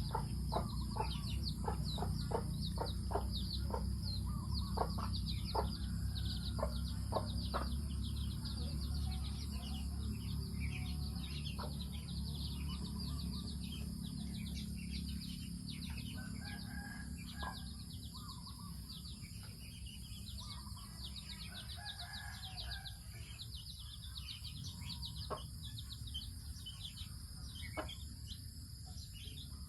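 Chickens clucking as they forage: short clucks come quickly in the first several seconds, then more sparsely, with a couple of longer calls around the middle. Rapid high bird chirping runs throughout over a low rumble that fades in the second half.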